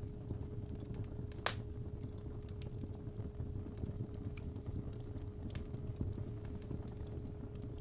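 Fireplace fire crackling with scattered pops, one louder pop about a second and a half in, over a low rumble, mixed with a steady 417 Hz sine tone.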